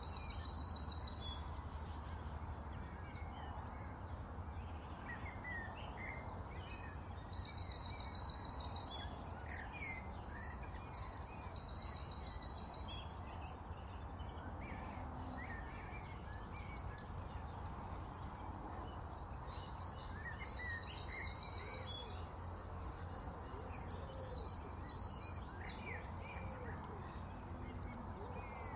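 Wild birds singing: one bird repeats a high, fast trill about a second long, many times over, while others chirp softly in between, over a faint steady rumble.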